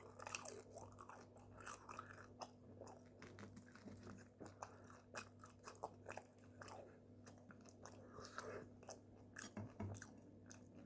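Faint close-up chewing of food, with irregular small crunches and wet mouth clicks, over a faint steady low hum.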